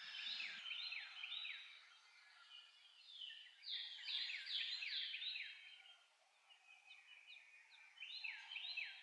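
A songbird singing in three phrases of quick, repeated down-slurred whistles, the middle phrase the loudest.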